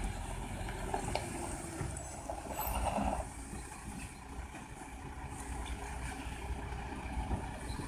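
Truck engine running with a steady low rumble, with a short louder burst of noise about three seconds in.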